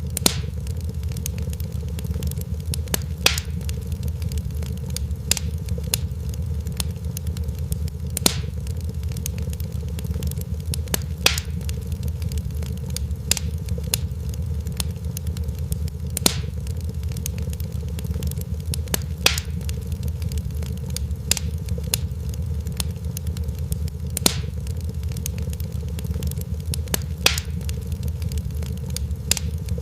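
Fireplace fire crackling: a steady low rumble with sharp pops every few seconds and fainter ticks in between.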